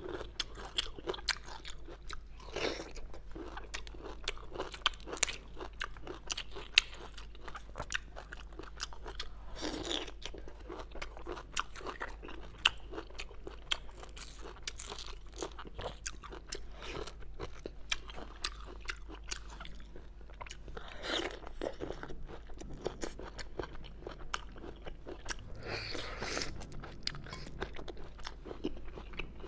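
Crunching and chewing of spicy hand-peeled bamboo shoots, a string of short, sharp crunches, with occasional softer noisy passages as the husks are peeled away.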